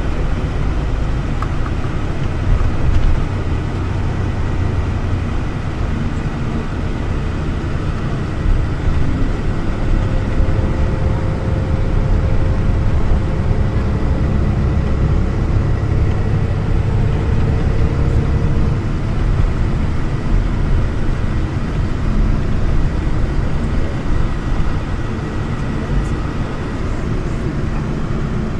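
Passenger train running steadily, heard from inside the carriage: a constant low rumble of the wheels on the rails with a thin, steady whine over it, and a lower tone that comes and goes in the middle.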